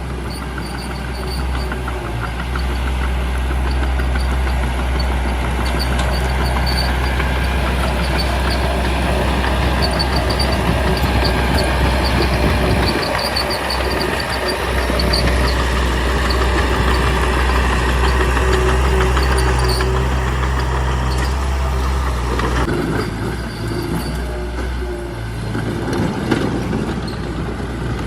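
Small crawler bulldozer's diesel engine working steadily, with a repeated high-pitched squeak. The engine note drops briefly about halfway through and again near the end.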